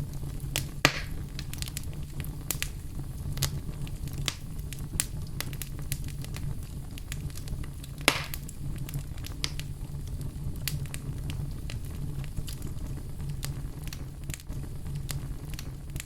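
Fire burning in a fireplace: a steady low rumble of flames with frequent small crackles, and two louder pops, about a second in and about eight seconds in.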